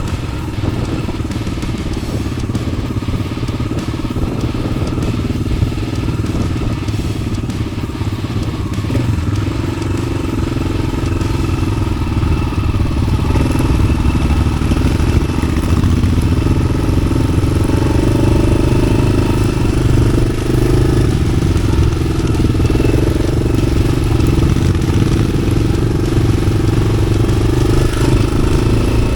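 Yamaha XT600's single-cylinder four-stroke engine running through an Arrow aftermarket exhaust, a steady motorcycle note that grows a little louder from about ten seconds in.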